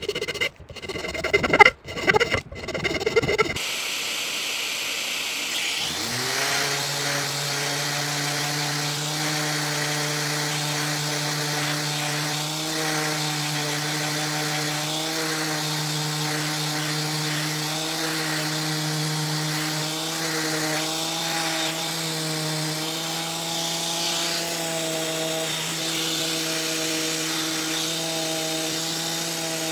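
Electric power tool working on wood: its motor spins up about six seconds in and then runs steadily, the pitch shifting slightly as it is loaded. Irregular loud knocks and scrapes come before it starts.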